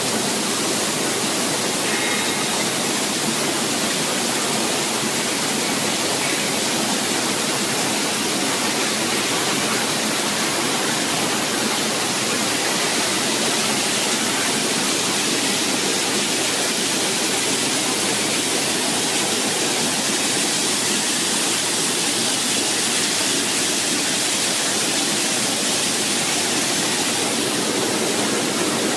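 Bubble-type vegetable washing machine running: a steady rush of water churned by air bubbles in the wash tank.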